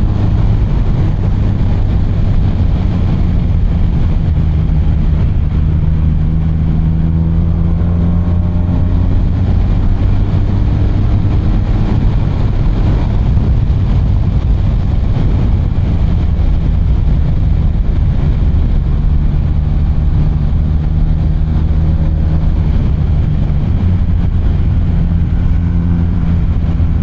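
BMW R 1250 RT's boxer-twin engine running while under way, its pitch rising and falling through the curves, over a steady rush of wind and road noise.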